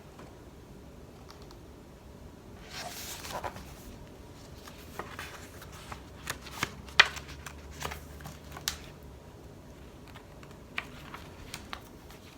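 Paper pages of a picture book being handled and turned: a soft swish of a page about three seconds in, then scattered light taps and clicks as the book is handled, the sharpest about seven seconds in.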